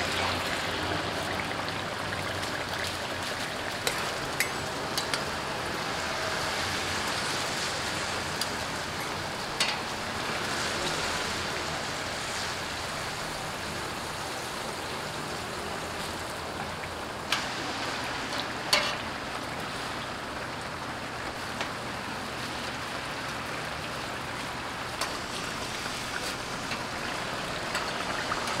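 Hotteok frying in oil on a flat griddle: a steady sizzle, with a few sharp clicks here and there.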